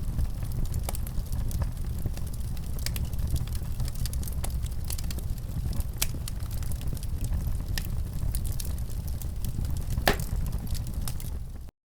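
Wood fire crackling in a fireplace: a steady low rumble with scattered sharp pops, one louder pop about ten seconds in. The sound cuts out for a moment near the end.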